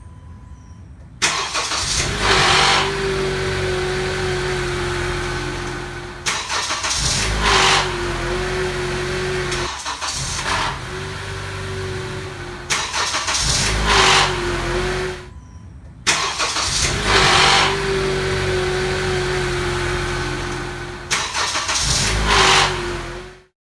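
2014 Honda CR-V engine started from cold several times. Each start brings a brief grinding rattle before the engine settles into running: the variable valve timing control (VTC) actuator rattle on cold start, which persists even after the actuator was replaced under warranty.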